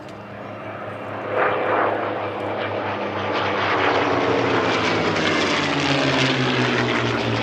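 Packard-built Merlin V-12 engine of a World War II piston fighter on a low pass. It swells sharply about a second in, and the engine note then falls slowly as the aircraft goes by.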